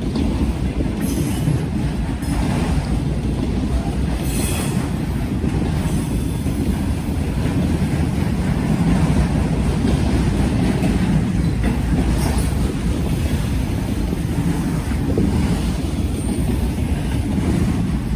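Freight train cars rolling past close by: a steady, loud rumble of wheels on rail with brief high wheel squeals.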